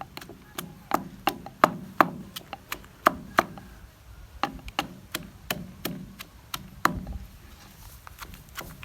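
Repeated sharp wooden chopping knocks from preparing green papaya salad, about three a second in an uneven rhythm. They pause briefly around four seconds in and turn weaker near the end.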